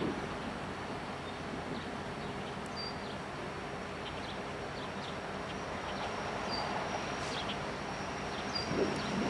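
Union Pacific diesel locomotives pulling an approaching double-stack container train: a low, steady rumble that grows slightly louder toward the end, with short high chirps over it.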